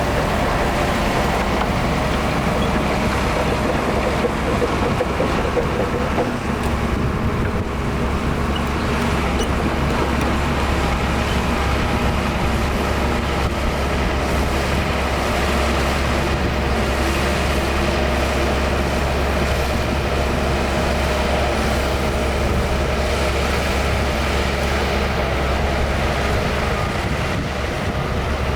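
Heavy diesel earthmoving machinery running steadily, its engine note held under continuous working load.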